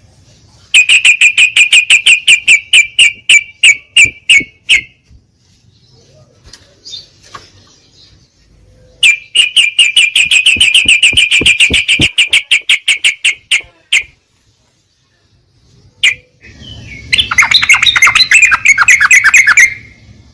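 Yellow-vented bulbul (trucuk) song: a rapid run of repeated sharp notes, about six a second, that slows at its end. A second run follows after a pause, and near the end comes a denser, busier phrase.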